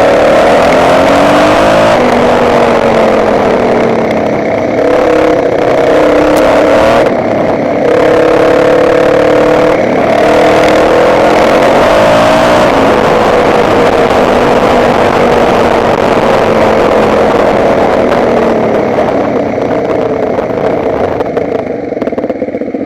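Motocross bike engine revving under way, its pitch climbing and dropping again and again, then falling slowly and easing off near the end, with a rush of wind and ground noise.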